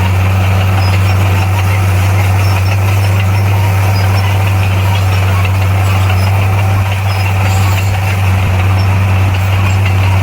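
Bulldozer's diesel engine running steadily, a deep, even drone that holds at one level.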